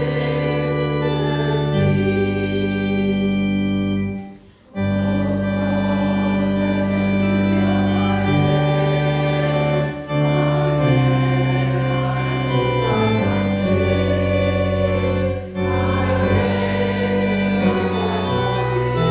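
Church organ playing sustained chords in phrases, with a brief break between phrases about four and a half seconds in and shorter breaks later.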